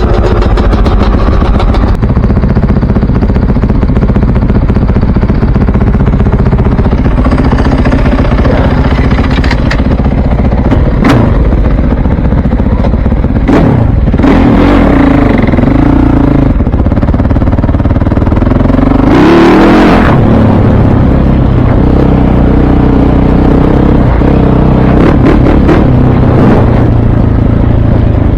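Several motocross bike engines running and being revved as they warm up, their pitch rising and falling. One loud burst about two-thirds of the way through stands out above the rest.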